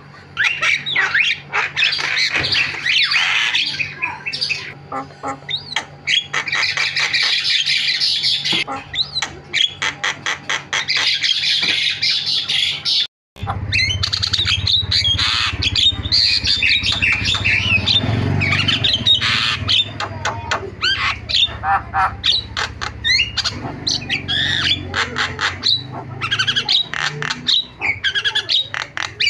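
Javan myna singing a fast, chattering song of harsh squawks, whistled notes and rapid rattling clicks, almost without pause. About 13 seconds in the sound cuts out for a moment, and afterwards a low steady hum runs under the calls.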